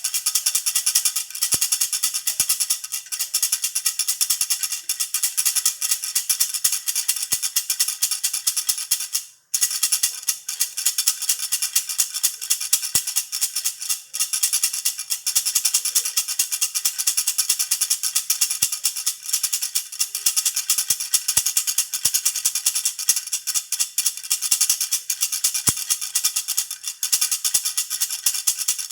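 A jhunjhuna baby rattle being shaken continuously, a dense rapid rattling and jingling. It breaks off for a moment about nine and a half seconds in.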